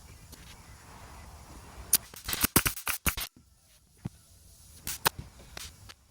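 Staple gun firing staples into an upholstery panel to fix welt cord in place: a quick run of sharp snaps about two to three seconds in, then a few more near five seconds.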